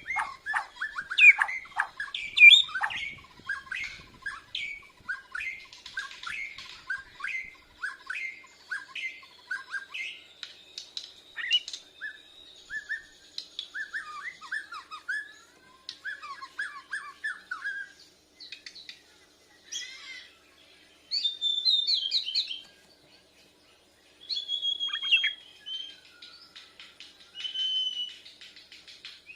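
Bornean white-crowned shama (murai batu borneo) singing: fast runs of short chirps, then varied whistled phrases broken by short pauses, a bird still learning its full song.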